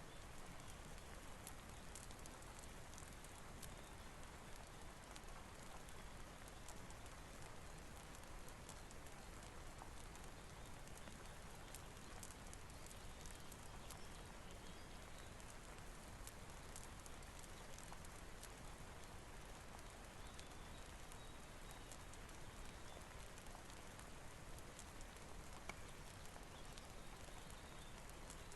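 Soft, steady rain with scattered light ticks, over the faint crackle of a fireplace.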